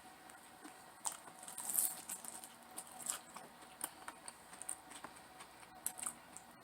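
Chewing and mouth sounds of someone eating: scattered small wet clicks and crackles, with a denser run about two seconds in.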